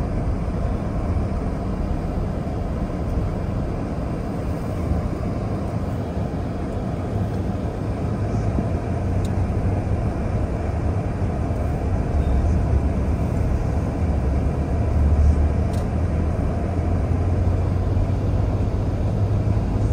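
Steady road noise of a moving car: a low rumble of tyres and engine that grows somewhat louder about twelve seconds in.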